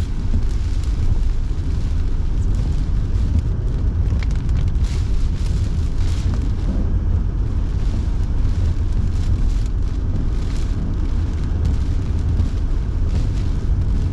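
Car driving, heard from inside the cabin: a steady low road and engine rumble with the car heater's fan blowing.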